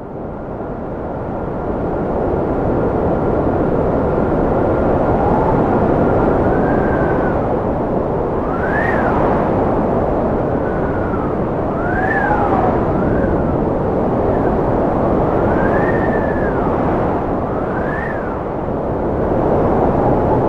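Cold wind howling steadily, with a whistling tone that rises and falls in pitch again and again over the rushing noise. It fades in from silence over the first couple of seconds.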